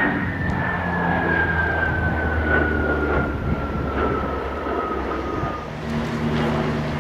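Aircraft flying past, its engine whine sliding steadily down in pitch as it goes by, over a low engine drone; the whine fades out near the end.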